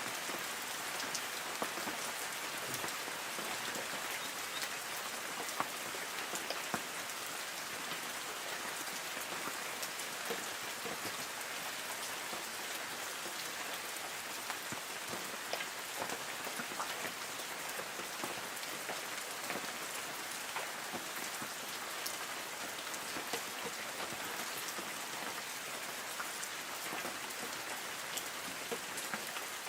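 Light rain falling steadily on forest trees, a continuous patter of drops hitting leaves with many small distinct drip ticks.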